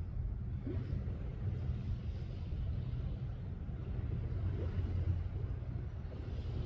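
Steady low rumble of wind buffeting the microphone, with the level wavering but no clear events.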